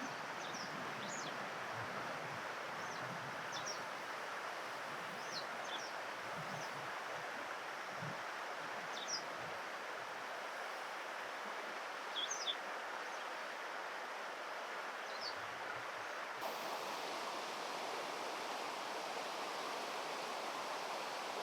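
Steady rush of flowing river water, with short, high bird chirps dotted through it. About 16 s in, the water noise becomes brighter and a little louder.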